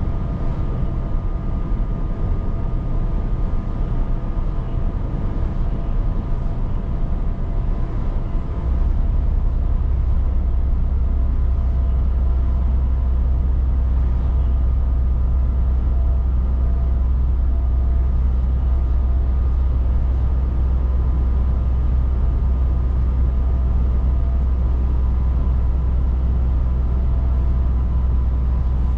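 Scania S 500 truck running on the road, with steady engine and road noise and a few faint steady tones. About a third of the way in, a deep low hum steps up in loudness and stays there.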